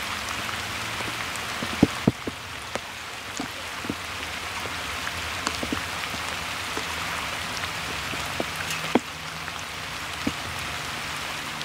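Steady rain falling on a lake's surface, an even hiss, with scattered sharp taps. The loudest taps come about two seconds in and again near nine seconds.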